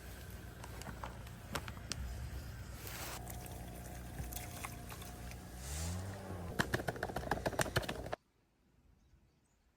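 Wind rushing over the microphone, with scattered clicks and then a quick run of sharp clicks and clatter near the end; the sound cuts off abruptly about eight seconds in.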